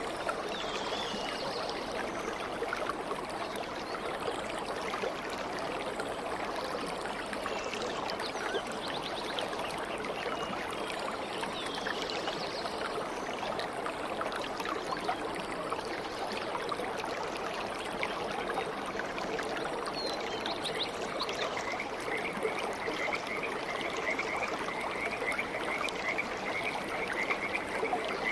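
Stream water flowing and babbling steadily, with a few faint bird chirps. A rapid, even trill starts a little past the middle and carries on.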